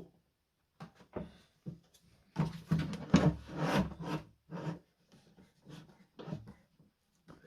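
Something being rubbed against wood in short, irregular strokes, with a longer, louder run of strokes about two to four seconds in.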